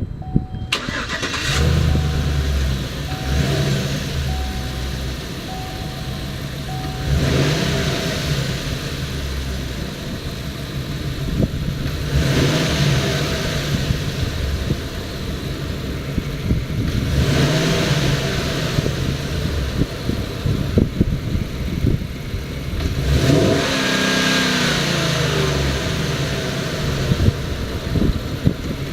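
Chevrolet 2500 pickup's engine cranks and starts about a second in, then idles, with four brief revs spaced about five seconds apart.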